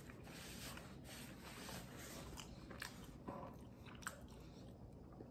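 A man chewing a mouthful of pizza close to the microphone: faint wet mouth sounds, with a few soft clicks in the second half.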